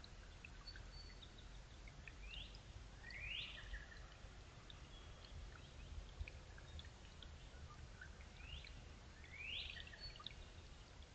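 Wild birds calling: a short rising call given twice in quick succession about two seconds in and again about eight and a half seconds in, with scattered faint chirps over faint low background noise.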